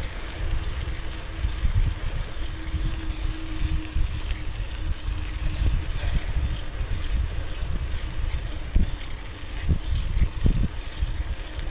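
Wind buffeting the microphone of a camera carried on a moving bicycle, with a steady rumble from the ride and a few sharp knocks near the end.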